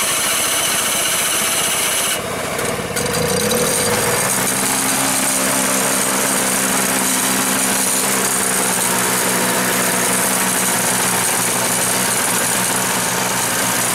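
Electric starter cranking a Toro two-stroke snowblower engine for about two seconds. The engine catches about three seconds in, picks up speed and settles into a steady run.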